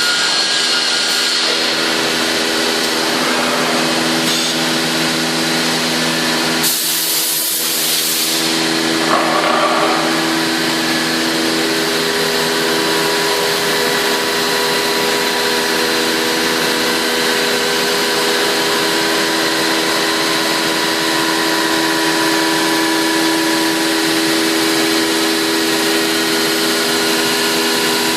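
Biesse Rover 24 CNC router's spindle running and cutting wood: a steady whine of several tones over a constant rush of noise. A brief hiss about seven seconds in.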